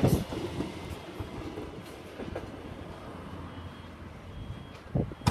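Diesel passenger train running away from the crossing, its sound fading over the first couple of seconds to a low rumble. A couple of short knocks come near the end.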